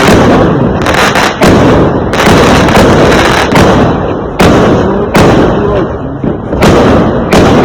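Fireworks going off in quick succession: a string of sharp bangs about one every second, over a dense, continuous crackle and rumble.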